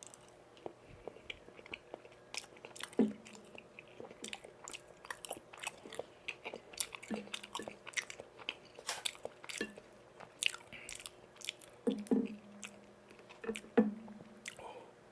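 Close-miked chewing of chewy tteokbokki rice cakes in sauce: irregular wet mouth clicks and smacks, with a few louder bites and swallows.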